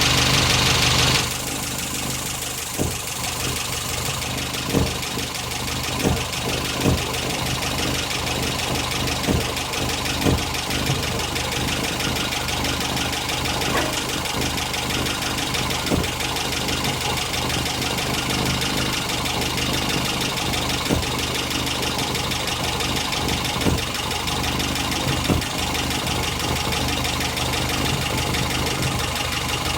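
2-litre Mazda MA engine running steadily at idle during its first hours of break-in running, louder for the first second or so, with irregular sharp knocks every second or two.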